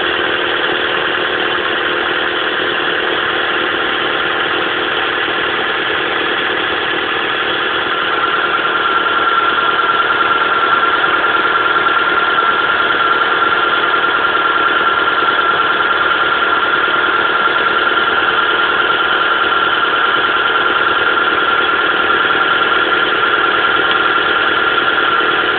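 Mitsubishi Pajero Mini engine running at a high idle with a misfire. About a third of the way in it gets slightly louder and a steady high whine joins and holds.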